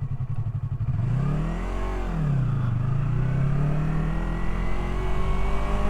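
Yamaha R3's parallel-twin engine under way: revs climb about two seconds in, fall back, then the engine holds a steady cruising pitch.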